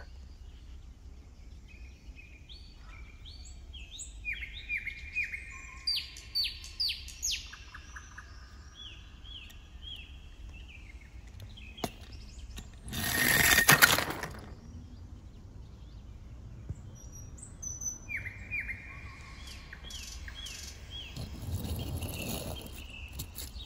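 Birds singing in short, repeated chirping phrases. About thirteen seconds in, a die-cast toy car rolls down a wooden ramp with a brief rumble that swells and stops, the loudest sound here.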